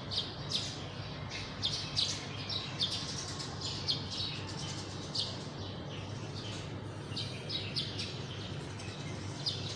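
Small birds chirping, many short high chirps in quick succession, over and over.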